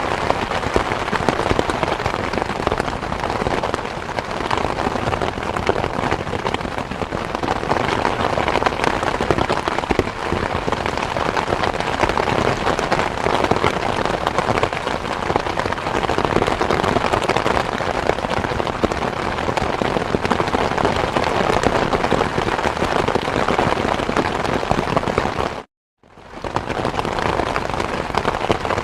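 Steady, dense rain falling and spattering on surfaces. It cuts out completely for a moment near the end, then swells back in.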